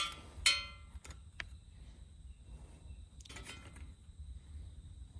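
Metal tools clinking with a ringing tone as a spark plug is tightened back into a small Honda dirt-bike engine with a spark plug socket and wrench: two clinks near the start, a couple of light clicks, then a short rattle about three seconds in.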